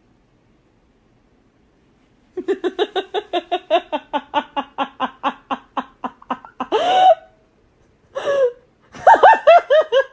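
A person laughing hard: from about two seconds in, a long run of rapid ha-ha pulses, about five a second, then a rising squeal, and another burst of laughter near the end.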